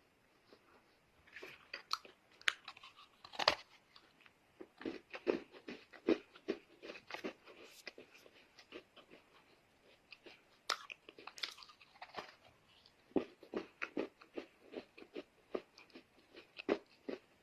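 Chunks of Chinese loess (dry clay earth) being bitten and chewed close to the microphone: a dense, irregular run of soft, sharp crunches that starts about a second in.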